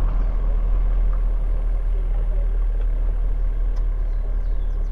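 Car being driven along a road: a steady low rumble of engine and tyre noise.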